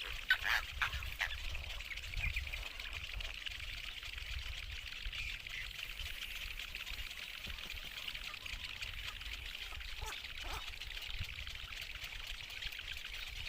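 Outdoor ambience: a steady hiss like running or pouring water, with low rumbling and a few short bird calls about ten seconds in.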